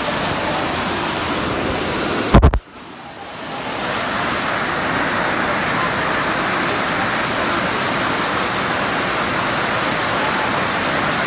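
Heavy rain pouring steadily. About two seconds in there is a brief loud thump, after which the rain sound drops away and swells back up over a second or so.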